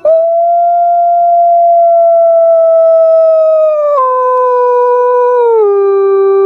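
Puter pelung (Barbary dove) giving a strange, drawn-out hooting call: one long, steady tone that starts abruptly and drops in pitch in two steps, about four and five and a half seconds in.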